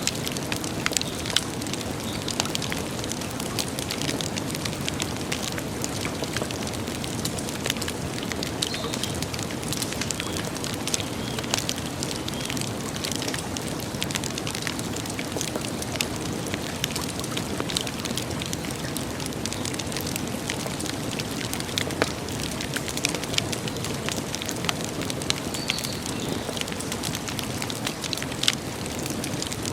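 Wood campfire burning, with irregular sharp crackles and pops over a steady low rush.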